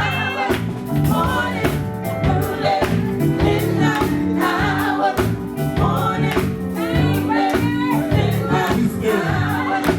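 Live gospel music: voices singing over a band, with a steady drum beat.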